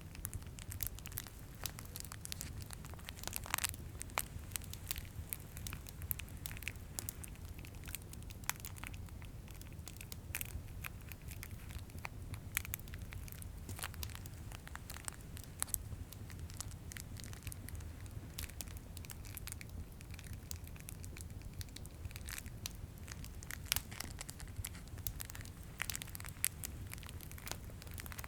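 Candy canes' plastic wrapping being crinkled and handled, a dense run of irregular sharp crackles and clicks. A fireplace crackles beneath it over a steady low rumble.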